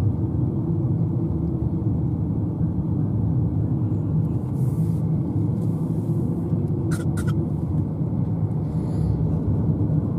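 Steady road and engine rumble of a moving car, heard from inside the cabin. Two brief faint high squeaks come about seven seconds in.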